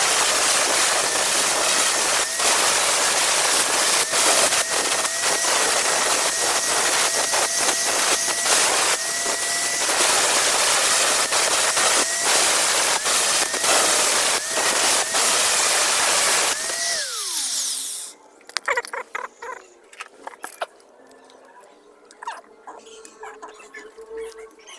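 Electric grinder working a steel knife blade: a loud grinding noise over the motor's whine, which rises and dips as the blade is pressed on and eased off. About seventeen seconds in, the grinder is switched off and its whine falls as it spins down, leaving quiet clicks and handling sounds.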